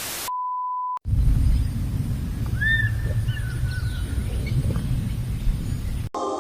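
A brief burst of static, then a steady single-pitch beep lasting under a second, like a test tone. Then low rumbling outdoor noise with a few short bird chirps, cutting off suddenly near the end.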